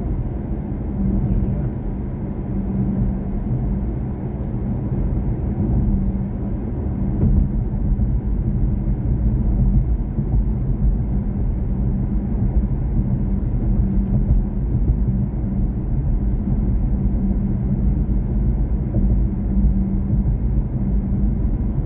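Steady low road and tyre rumble of a BMW i4 M50 electric car on the move, with no engine note.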